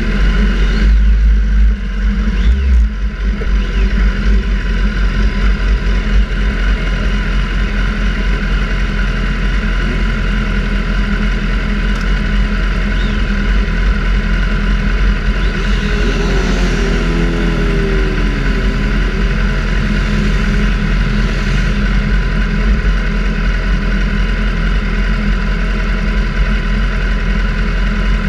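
Sportbike engine running hard on a race track, with a heavy low wind rumble. About two-thirds of the way through, the engine pitch dips and climbs again as it slows and speeds up.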